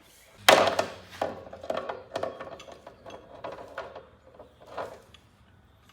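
A loud knock about half a second in, then an irregular run of smaller clunks and rattles, as of metal gear and rigging being handled, dying away near the end.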